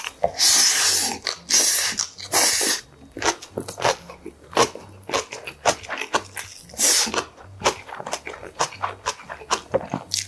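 Close-miked chewing of a large mouthful of boiled pork belly wrapped in fresh kimchi: a few loud wet crunches in the first three seconds, then rapid small clicks and smacks of chewing, with another loud crunch about seven seconds in.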